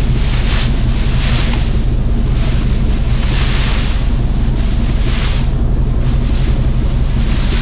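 John Deere tractor engine running steadily, with wind buffeting the microphone in gusts that come and go every second or two.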